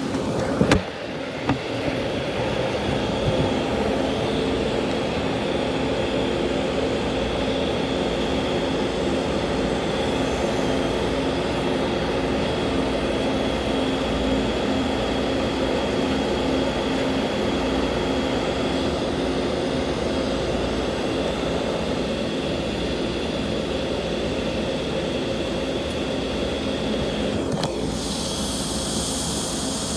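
TIG welding arc hissing steadily with a hum under it, after a couple of sharp clicks about a second in; the sound changes abruptly near the end.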